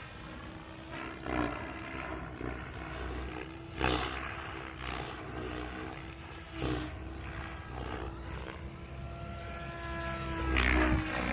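Electric 580-size RC helicopter in flight: a steady motor and rotor whine, with several brief louder surges of rotor noise and a shift in pitch near the end. Wind buffets the microphone.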